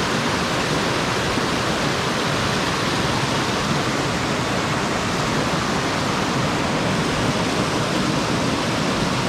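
Steady rushing of fast-flowing river water, an even hiss with no breaks or separate events.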